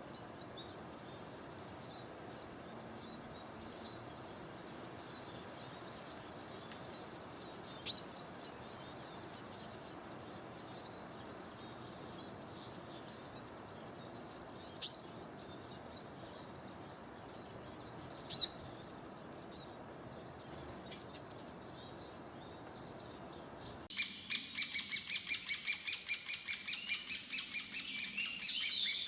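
Wild birds calling: a few scattered sharp chirps over a steady background hiss. About 24 seconds in it switches suddenly to a loud, fast run of high chirps, several a second.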